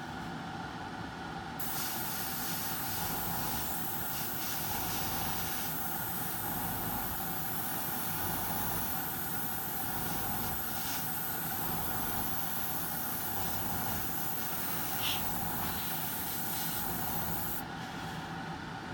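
Airbrush spraying a steady hiss of air and paint for about sixteen seconds, starting just after the beginning and cutting off near the end, over the constant hum of an air compressor.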